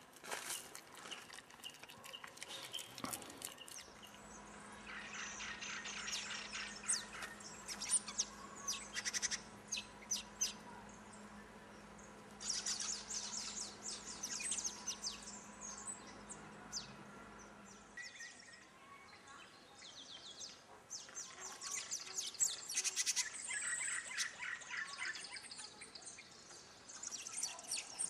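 Forest birds chirping and giving rapid high trills in repeated bouts, with a faint steady low hum through the middle stretch.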